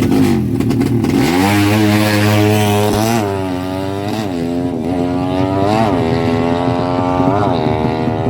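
Honda Karisma's single-cylinder four-stroke motorcycle engine picking up about a second in, holding steady, then being blipped up and back down about five times.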